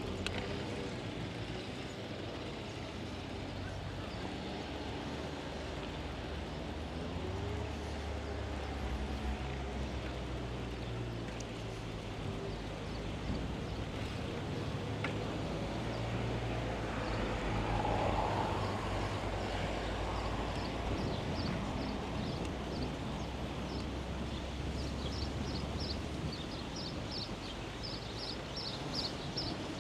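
Steady outdoor road noise of a bicycle ride, with a low rumble throughout, a louder swell about two-thirds of the way through, and a quick run of high ticks near the end.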